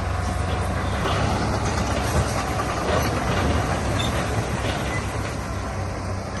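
Bulldozer's diesel engine running steadily under a continuous metallic clanking and rattling, typical of a tracked dozer at work.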